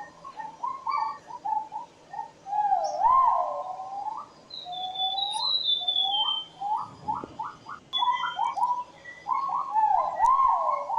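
Great argus pheasant calling in the forest with repeated loud, wavering whistled phrases, plus a run of short rising notes that quickens about halfway through. A second bird gives a fainter, higher run of falling notes in the middle.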